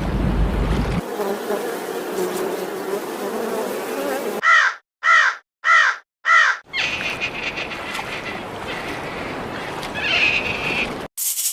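A run of animal sound clips: a steady buzz, then four short harsh calls about half a second apart, then another, higher buzz.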